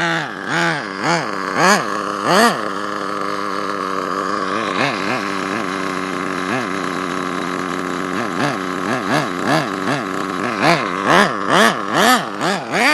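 HPI 4.1 nitro engine in an RC truck, revved in repeated quick blips that rise and fall in pitch, held at a steady speed for a few seconds in the middle, then blipped rapidly again. The owner suspects the spur gear mesh is not set right.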